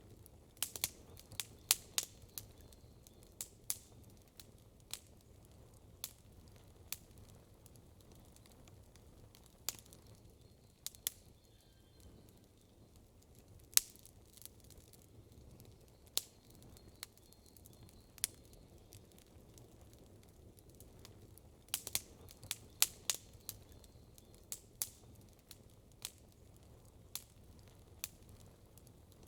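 Campfire wood crackling: irregular sharp cracks, bunched in quick flurries near the start and again about twenty-two seconds in, over a faint steady low hum.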